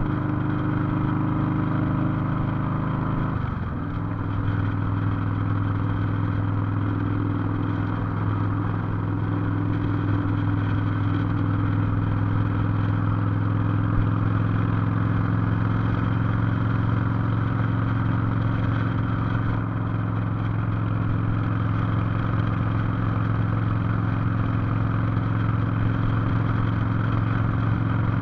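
Cruiser motorcycle engine running steadily under way, heard from the rider's seat. About three and a half seconds in, its pitch dips briefly and settles at a new, steady level, as with a gear change, with a low rumble underneath throughout.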